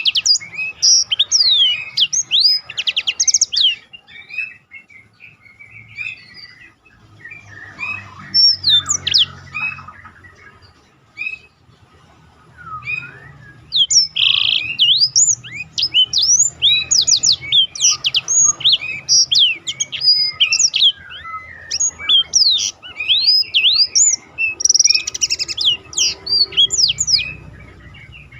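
Black-throated canary (blackthroat) singing a fast, varied song of sweeping chirps and whistles broken by quick rolling trills, easing off briefly twice before picking up again.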